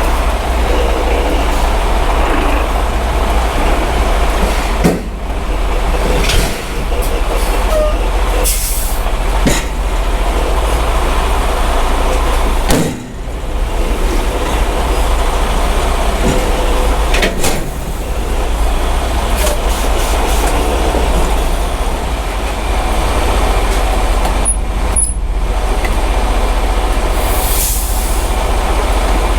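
Semi truck's diesel engine running with a steady low drone. Twice a short high hiss cuts in, once about nine seconds in and once near the end.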